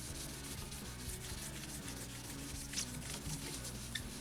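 Faint rubbing on the guitar's finish, a soft scratchy texture of quick strokes, over quiet background music.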